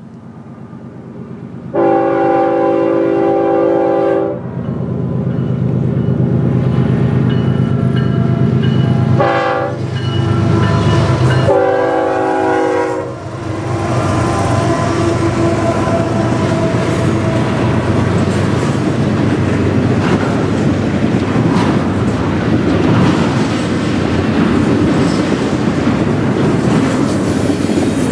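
Diesel locomotive air horn on a BNSF intermodal freight train, sounding three blasts: a long one about two seconds in, a short one, then another long one. Under the horn is the locomotive's engine rumble as it passes close by. This gives way to the steady rumble and clatter of wheels on rail as the double-stack container cars roll past.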